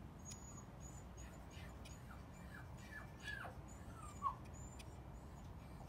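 Faint bird chirps: a series of short, falling calls about two to four seconds in, over a quiet background with a few soft clicks.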